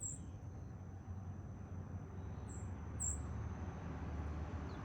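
Quiet backyard ambience with a few short, very high chirps from small birds, three or four in all, over a thin steady high-pitched whine and a low rumble.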